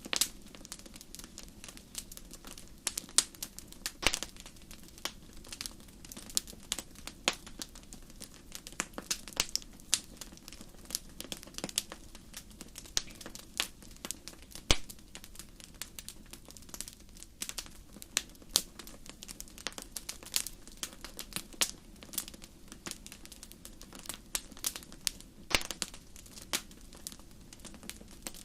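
Wood fire crackling in a fireplace: irregular sharp pops and snaps, some louder than the rest, over a soft steady burning hiss.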